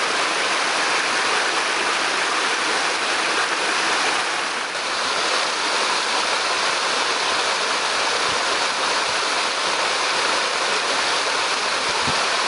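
Waterfall pouring steadily: a constant loud rush of falling water, with a slight dip in level about four and a half seconds in.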